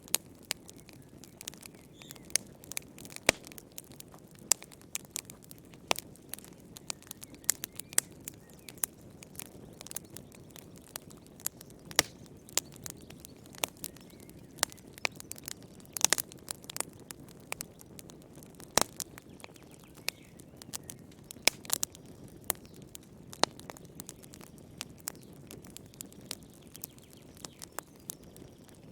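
Wood fire burning in a fireplace: irregular sharp pops and crackles of burning firewood, several a second, over a soft steady low rumble of the flames.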